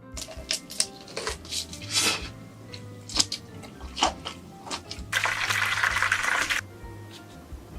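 Background music under a series of short, sharp cracks and clicks from handling and eating food, then a rush of noise about five seconds in that lasts about a second and a half.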